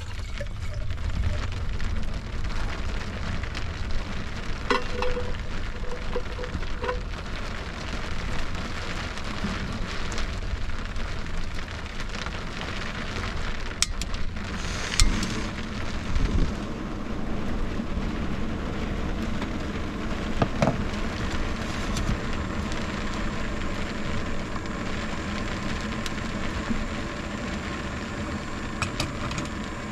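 Steady rain drumming on a truck camper shell, heard from inside, with a few sharp clicks and clunks of metal cookware being handled.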